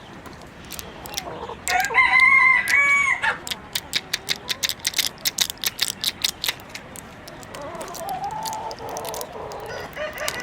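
A rooster crows once, loud, about two seconds in. A quick run of sharp clicks follows, about six or seven a second for around three seconds. Hens cluck softly near the end.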